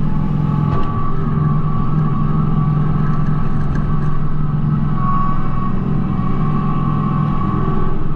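Kubota B2650 compact tractor's three-cylinder diesel engine running steadily, with a steady high whine over the engine note.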